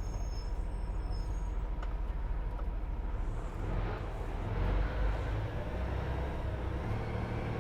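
Semi truck's diesel engine running at low speed, a steady low rumble heard inside the cab, swelling a little about halfway through and again near the end.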